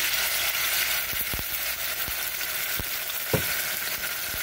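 Chopped garlic sizzling steadily in hot oil in an aluminium pot as a dark sauce is squeezed in, with a few light knocks, the sharpest about three-quarters of the way through.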